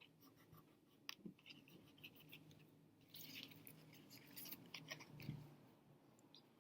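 Faint crayon scratching on a paper plate as stars are drawn: a few short strokes, then a longer run of scribbling past the middle.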